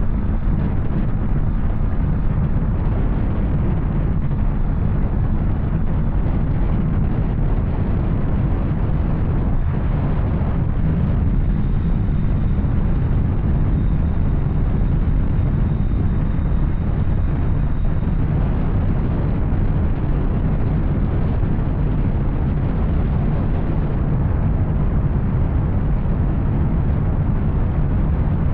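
Yamaha Tracer 900's three-cylinder engine running steadily through an Arrow aftermarket exhaust while riding, a loud, even low rumble with no gear changes or revving.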